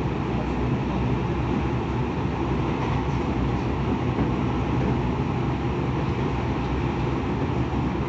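Tokyo Metro 10000 series train running steadily at speed, heard from inside the car: an even rumble of wheels on rail and running gear.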